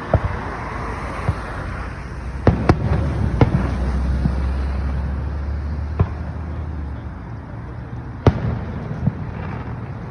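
Aerial fireworks shells bursting in a run of sharp bangs with a low rumble between them. A quick cluster of reports comes about two and a half seconds in, and a loud single bang comes near the end.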